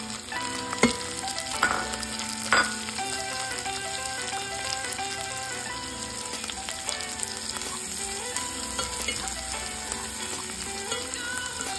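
Dried shrimp sizzling and frying in a hot pan as they are stirred with chopsticks, with three sharp knocks in the first three seconds as the shrimp go in from the bowl. Soft background music runs underneath.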